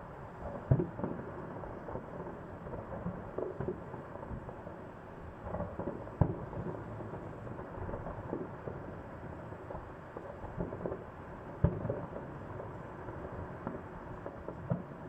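Fireworks display: aerial shells bursting in an irregular string of booms over a continuous rumble of more distant bursts, with two louder bangs, one about a second in and one about three-quarters through.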